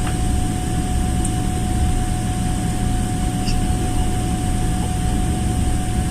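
Airliner cabin noise after landing: a steady, loud low rumble of engines and air conditioning, with a thin steady hum running through it.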